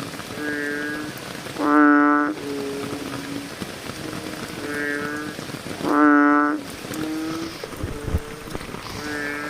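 Bullfrogs calling over one another in a chorus, several voices giving short, deep, pitched calls. Two louder, longer calls stand out, about four seconds apart, over a steady hiss.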